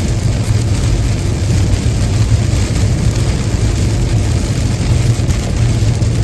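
Steady low rumble of a car driving at highway speed in the rain, with the even hiss of tyres on wet road.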